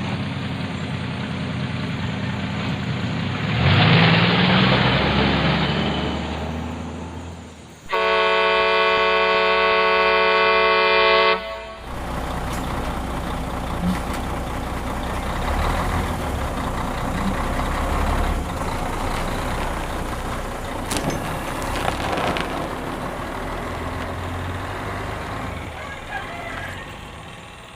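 Steady low vehicle rumble, with one loud, steady truck-style horn blast about eight seconds in that lasts about three and a half seconds and stops abruptly.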